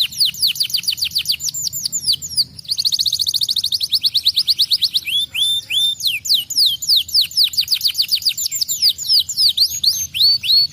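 Domestic canary singing loudly and without a break: strings of repeated downward-sliding whistled notes, speeding up about three seconds in into a very fast trill for a couple of seconds, then returning to slower repeated notes.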